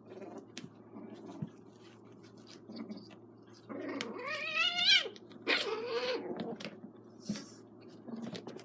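A kitten crying out twice during a play-fight with another kitten: a long wavering cry about four seconds in, then a shorter one, with faint clicks and taps scattered around them.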